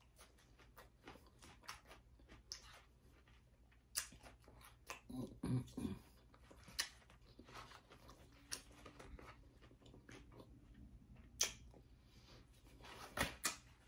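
A person chewing salad close to the microphone, with scattered short, crisp clicks and crunches.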